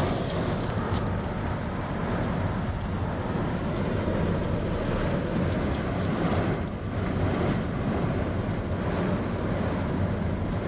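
Heavy rain pouring down on a car, a steady rushing noise heard from inside the cabin.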